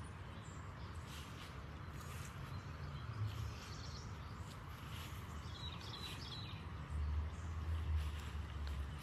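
Outdoor garden ambience: a small bird gives a quick run of short high chirps about two-thirds of the way through, over a low rumble of wind on the microphone that grows louder near the end.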